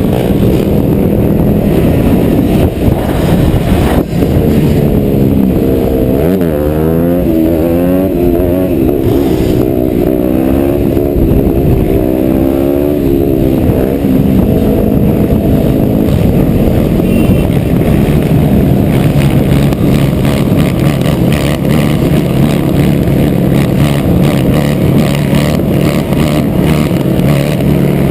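Dirt bike engine running loud and revving, its pitch rising and falling several times in the first half, then holding fairly steady.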